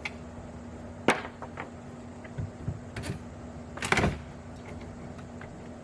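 A few sharp knocks and bumps, the loudest about a second in and a cluster near four seconds, as the old window is worked loose from its frame.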